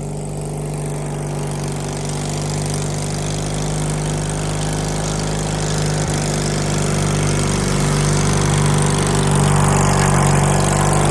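Riding lawnmower's small engine running at a steady speed, getting gradually louder as the mower comes closer.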